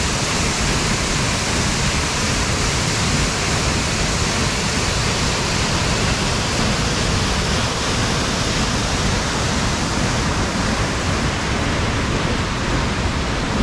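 Waterfall rushing: a loud, steady roar of falling water with no change throughout.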